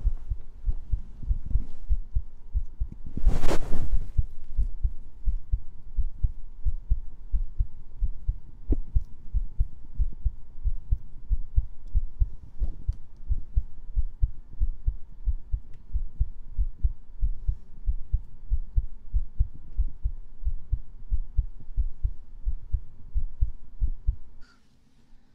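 Heartbeat sounds: steady, evenly repeating low thumps that stop abruptly near the end. A brief loud rustle about three and a half seconds in.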